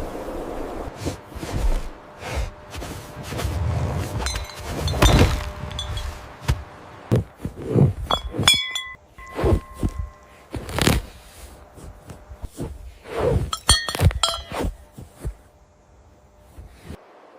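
Irregular knocks and clinks, several of them ringing briefly, in two busier clusters around the middle and about three-quarters of the way through.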